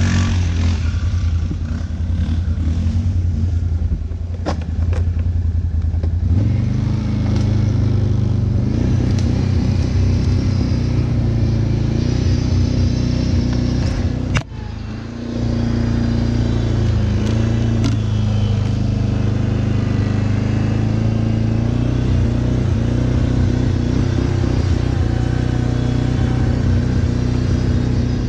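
Quad bike (ATV) engine running under load. The revs and loudness rise about six seconds in, drop briefly near the middle, then pick up and hold steady. A few sharp knocks are scattered through.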